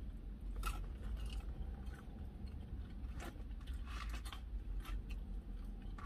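A person chewing curly fries: soft crunches and mouth clicks scattered through, over a low steady hum.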